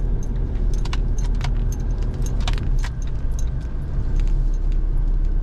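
Four-wheel-drive vehicle driving over a rough dirt track, heard from inside the cabin: a steady low rumble with frequent irregular sharp rattles and jingling of loose items shaking over the bumps.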